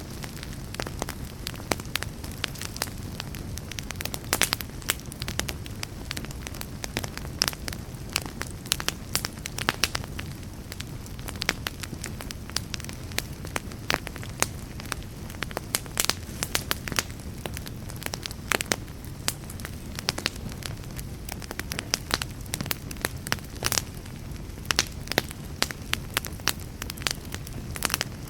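Wood fire burning steadily, with a low rumble of flames under frequent sharp, irregular crackles and pops.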